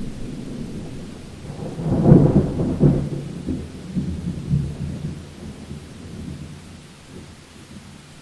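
Thunder rolling over steady rain: the low rumble swells to its loudest about two seconds in, then slowly dies away over the next few seconds while the rain keeps hissing.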